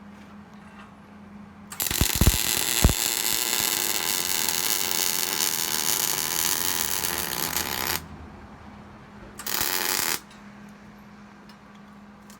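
MIG wire-feed welder arc crackling in a steady sizzle for about six seconds, with a few pops as the arc strikes, then a second short bead of about a second. A low steady hum is heard between the welds.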